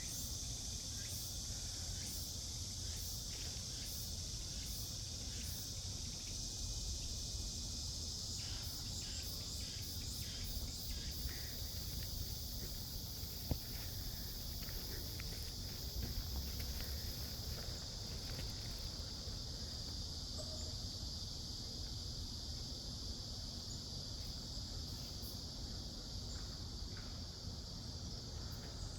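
Cicadas buzzing in a steady, high-pitched chorus. Short repeated pulses of another call sound over it for the first ten seconds or so.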